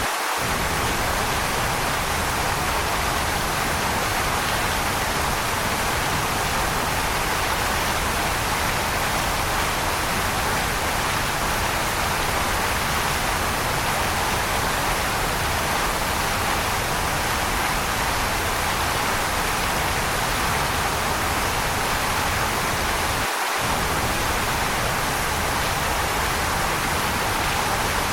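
Waterfall rushing in a steady, unbroken roar of water noise. Its lowest rumble drops out for a split second twice, at the very start and near the end.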